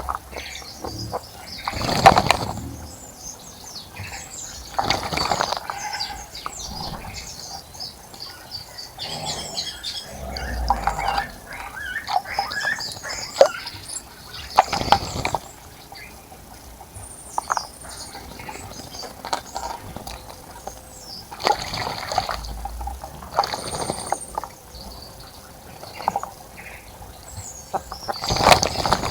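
Small birds splashing and fluttering in the water of a bird bath, in several short bursts a few seconds apart, with short high chirps between the splashes.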